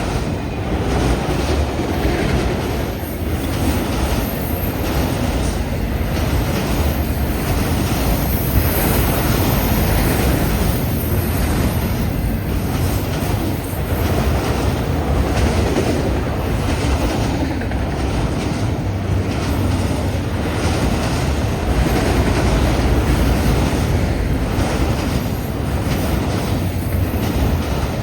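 Long freight train rolling past at speed: a steady rumble of cars with wheels clicking over the rail joints. Strong wind is buffeting the microphone.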